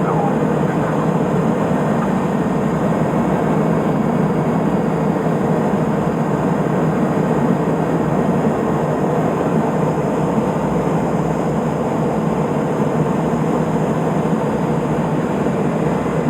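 Steady drone of a Cessna P210 Silver Eagle's Rolls-Royce turboprop engine and propeller in flight on approach.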